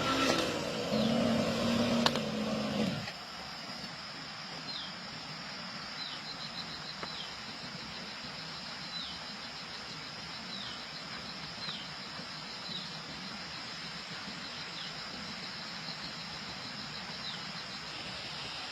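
A lawn mower's engine running, then cutting off abruptly about three seconds in. After that there is a steady high hiss, with short, high, falling chirps repeating about once a second.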